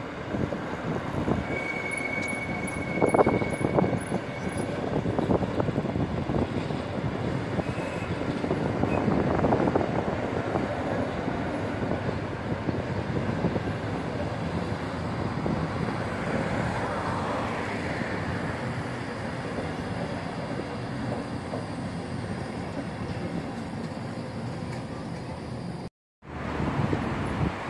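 SBB passenger train coaches rolling past over pointwork: a steady rumble of steel wheels on rail, with a few sharp clacks in the first seconds as wheels cross rail joints. The sound cuts out briefly near the end.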